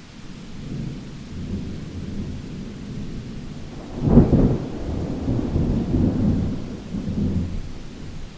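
Thunder rolling in a storm: a low rumble builds, peaks in a loud clap about four seconds in, then rumbles on and fades, over a steady hiss of rain.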